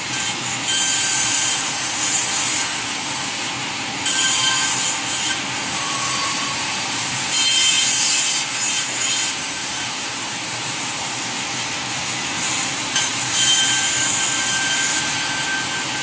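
Sawmill power saw cutting through wood in repeated passes: four loud, hissing bursts of cutting, each one to two and a half seconds long, over a steady run of machine noise.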